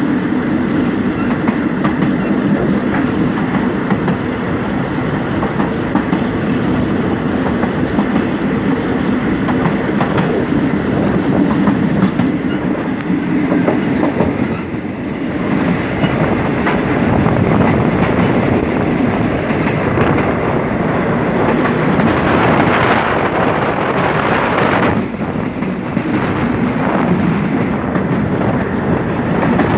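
State Railway of Thailand express train's passenger carriages running at speed, heard from a carriage window: a steady rumble and rattle of wheels on rails. The sound turns brighter and hissier from about halfway through.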